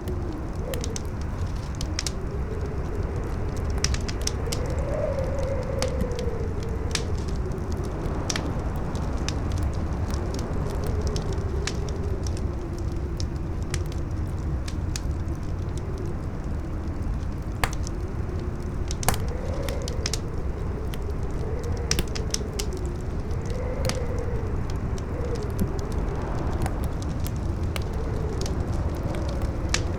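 Campfire crackling with frequent sharp pops, over strong wind howling in a wavering tone that slowly rises and falls, with a low rumble of gusts beneath.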